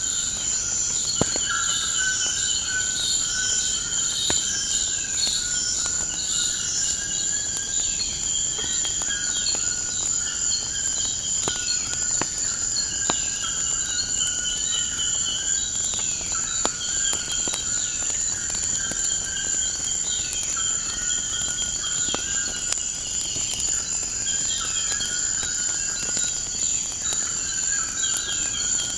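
Steady high-pitched trilling of crickets, with short bird calls repeating every second or so and scattered sharp crackles of a wood fire.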